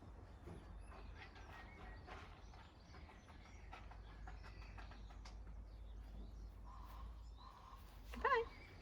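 Birds calling faintly over a low outdoor rumble, with one louder, wavering call near the end.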